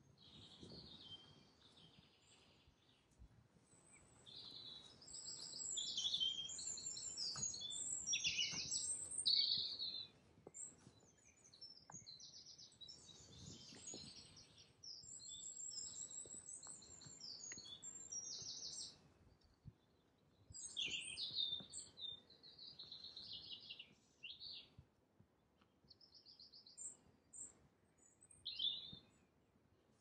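Songbirds singing in repeated high, trilling phrases, loudest from about five to ten seconds in and again around twenty-one seconds.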